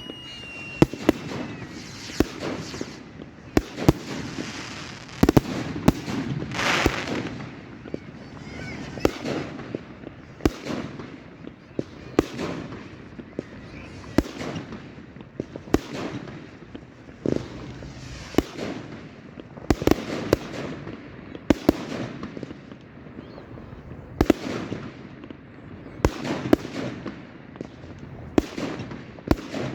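Fireworks going off in a continuous barrage of sharp bangs, roughly one every second or so, with a louder crackling burst about seven seconds in and a short whistle at the very start.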